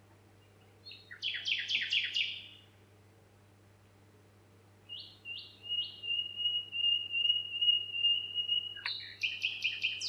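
Songbird singing. About a second in comes a quick run of about five sweeping notes. Halfway through, three short notes lead into a long steady whistle held for about three seconds, and a fast trill of notes follows near the end, all over a faint steady low hum.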